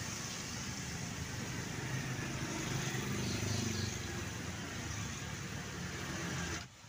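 A truck engine running slowly under a steady hiss of rain and wet road noise. The sound cuts off abruptly near the end.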